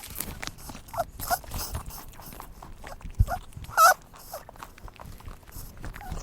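Rabbit giving a few short, high squeaks among small clicks and rustling, the loudest squeak nearly four seconds in.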